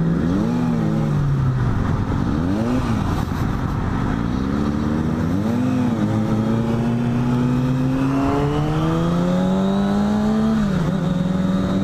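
Engines revving in traffic: three short rises and falls in pitch, then a steady climb for about four seconds that drops off sharply near the end, like a gear change.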